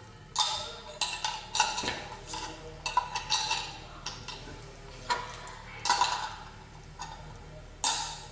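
Irregular sharp clacks and clinks of hard kitchen items knocking together, about a dozen with uneven gaps, each ringing briefly.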